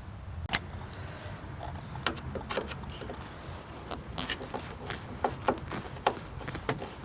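Irregular sharp clicks and light knocks of hand tools and metal parts as a screwed-on trim strip is worked loose inside a car, over a low steady hum.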